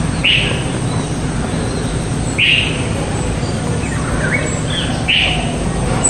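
A bird calls three short, loud chirps about two and a half seconds apart, with fainter chirping between the second and third, over a steady low background rumble.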